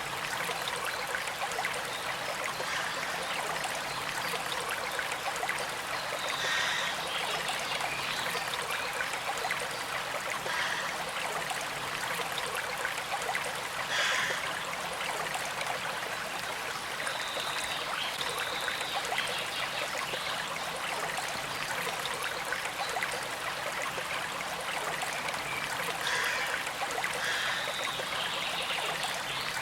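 Gentle stream flowing and trickling steadily.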